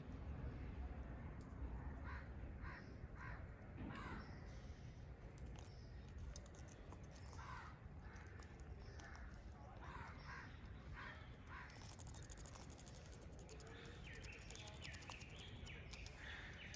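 Pet parrot giving faint, short harsh calls in quick groups, turning to higher chirps near the end.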